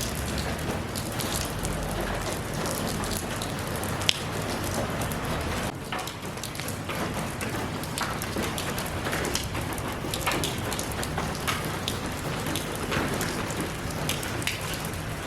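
Steady rain falling, with scattered heavier drops pattering on a surface and a sharp single drip about four seconds in.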